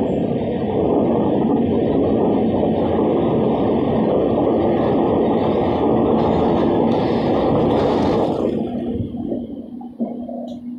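Train running through a tunnel: a loud, steady rumble of wheels on rail echoing off the tunnel walls. About eight and a half seconds in, it drops off sharply as the train comes out into the open.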